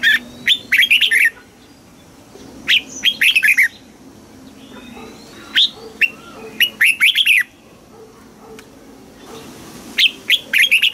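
Red-whiskered bulbul singing: four short phrases of quick, falling notes a few seconds apart.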